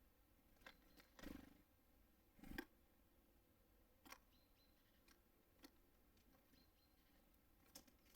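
Small birds at a feeder: scattered light taps and clicks of beaks and feet on the feeder, and two short wing flutters in the first few seconds, with faint high chirps.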